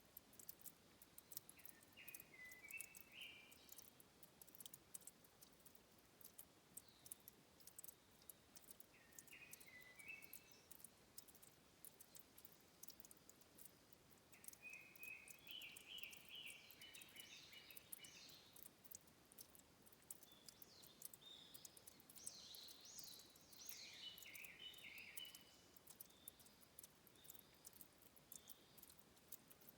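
Faint headwater spring trickling, with a steady patter of tiny drips and ticks. A small bird sings short runs of quick, high repeated notes four times, the longest and loudest from about halfway to near the end.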